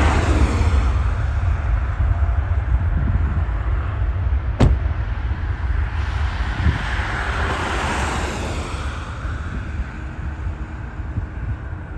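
Jet airliner engines rumbling as an aircraft passes, the sound swelling and then fading away toward the end, with a single sharp click about halfway through.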